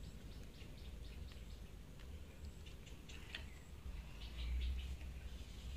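Faint quick chirps of small birds, several a second, over a low rumble that grows louder near the end.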